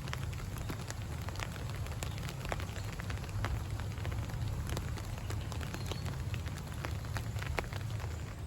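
Rain falling, with many irregular drop ticks on a nearby surface over a steady low rumble.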